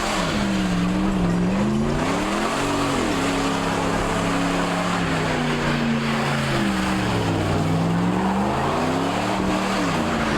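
A vehicle engine revving, its pitch rising and falling in slow swells of a couple of seconds, over a loud rushing noise.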